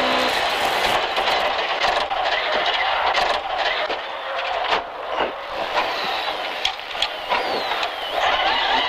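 Cabin noise inside a classic Mini rally car driven on a stage: engine and road noise, with many short knocks and rattles. A thin whine falls in pitch a few times in the second half.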